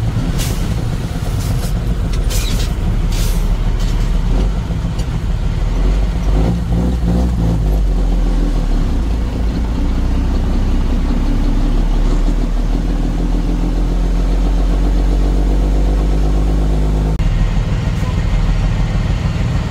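Truck engine running steadily under way, with a few short sharp high-pitched noises in the first few seconds. The engine sound changes abruptly near the end.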